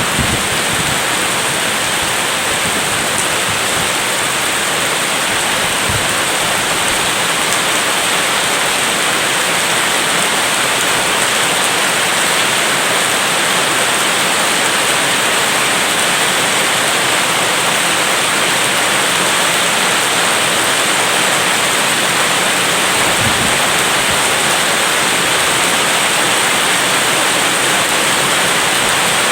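Steady heavy rain, an even dense hiss, with a few brief low thumps.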